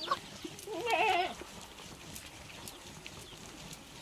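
A goat bleats once about a second in: a short, wavering call.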